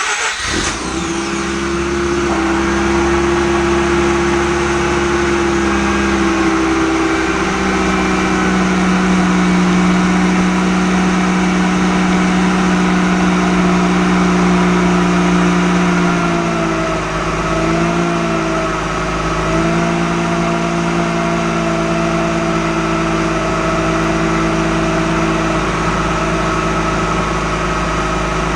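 Mazda RX-8's twin-rotor rotary engine starts from cold, catching at once, and settles into a steady fast idle through its exhaust. The pitch wavers and dips briefly around the middle before steadying again.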